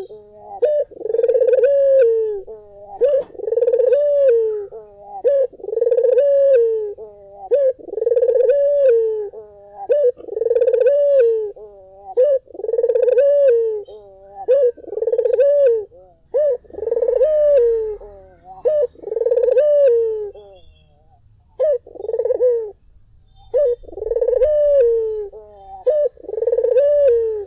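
A puter (Barbary dove) cooing over and over, a rising then falling coo roughly every second and a half, with a brief pause about two-thirds of the way in.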